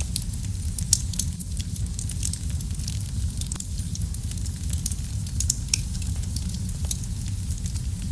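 Wood fire crackling in a fireplace: a steady low rumble of flames with many small, sharp crackles and pops, one louder pop about a second in.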